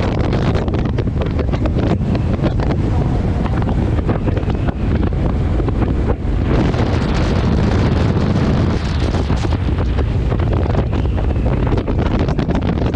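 Loud, steady wind buffeting the microphone of a moving motorcycle, in irregular gusts, with the rumble of the ride underneath.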